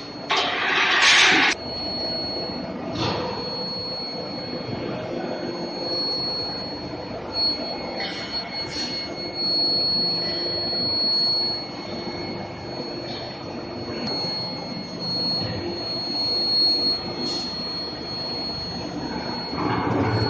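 Metal induction heating furnace running, giving a steady high-pitched whine, with a brief loud hiss in the first second and a half and other short noisy bursts over it.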